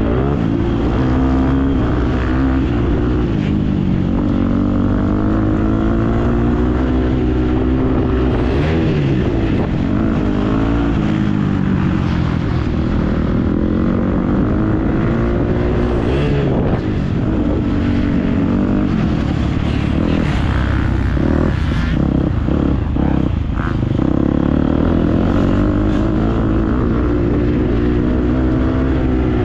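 Motocross dirt bike engine being ridden hard, its pitch climbing and dropping again every few seconds as the throttle opens and closes.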